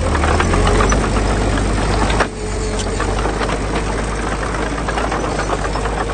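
Diesel engine of heavy construction machinery running steadily, with a low hum and a rattling clatter over it. The sound drops briefly about two seconds in.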